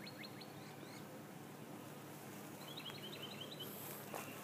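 A small bird singing a quick run of chirps, about six a second, that stops about half a second in, then a shorter run of chirps about three seconds in. Under it is the faint steady hum of honeybees around the hives.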